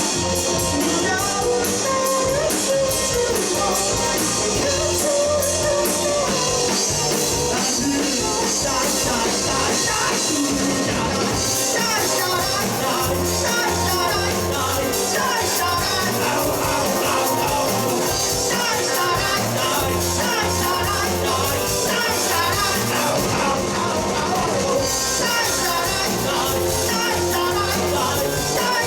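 Live rock band playing loudly and without pause: electric guitars, bass guitar and drum kit.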